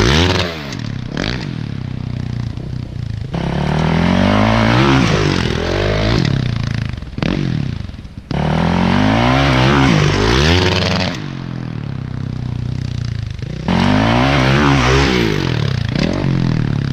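Motocross bike engine revving hard and backing off over and over, the pitch climbing and falling with each pull of the throttle. The sound breaks off and starts again abruptly about three times.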